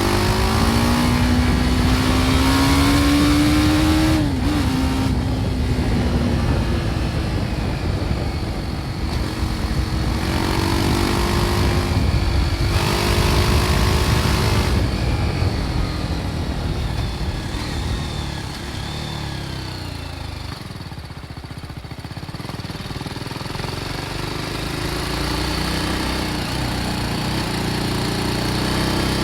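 BMW G310 R's single-cylinder engine with its stock exhaust, under way: the engine note climbs as the bike accelerates, drops at a gear change about four seconds in, then pulls up again. It eases off and goes quieter in the second half, then builds again near the end.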